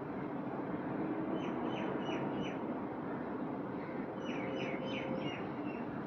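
A bird calling in two short runs of quick, falling notes, each run lasting about a second, over a steady background hum.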